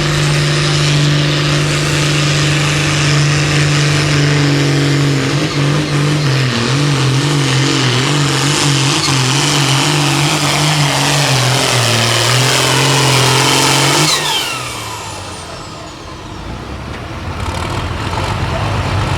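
Turbocharged diesel pulling tractor running flat out under load on the sled, its engine note wavering as it pulls. About fourteen seconds in the throttle is cut: the engine drops away and a high whine falls as the turbo winds down.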